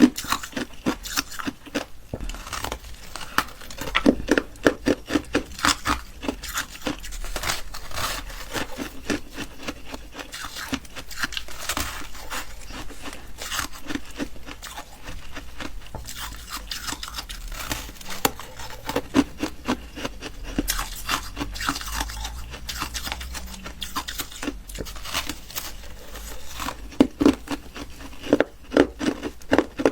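Close-miked chewing and crunching of ice, a dense run of crisp crackles broken by clusters of louder bites.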